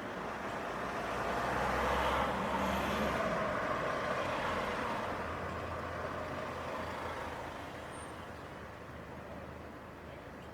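City street traffic: a motor vehicle drives past with a low engine hum and tyre noise, loudest about two seconds in, then slowly fading.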